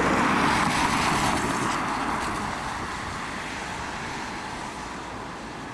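A road car passing and moving away, its tyre and engine noise fading steadily over several seconds.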